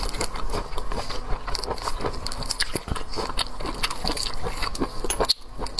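Close-miked mouth sounds of someone eating seafood: biting and chewing heard as dense, irregular clicks and crackles.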